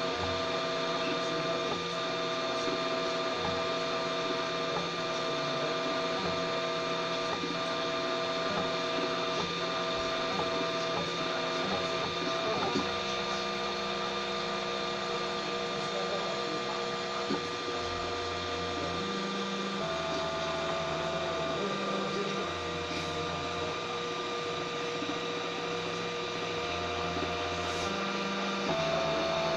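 3D printer running, its stepper motors whining in steady tones that switch and change pitch every second or two as the axes move, over a constant machine hum.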